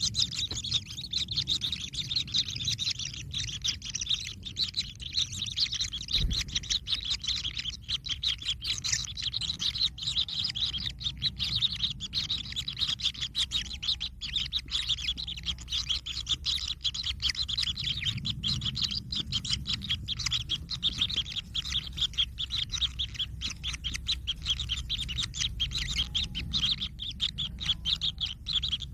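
Kingfisher chicks calling: a dense, unbroken stream of rapid high chirps, with a steady low rumble underneath.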